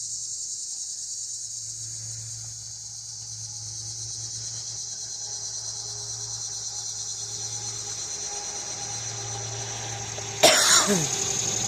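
A man coughs loudly, about ten and a half seconds in, over a steady low hum and a steady high hiss.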